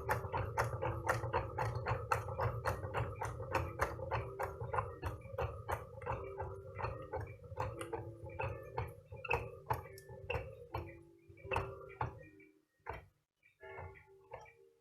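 Small candle-heated Stirling engine with membrane pistons running, its mechanism clicking in a steady rhythm of about four clicks a second over a low hum. About twelve seconds in the hum stops and the clicks become sparse and irregular.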